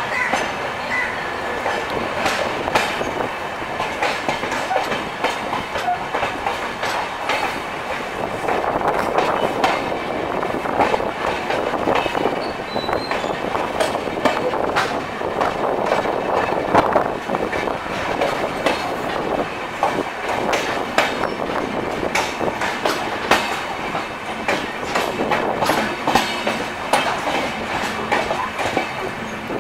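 LHB passenger coach of a departing express train running over the track, heard from an open doorway: a steady rumble of wheels on rails with frequent sharp clacks from rail joints and points.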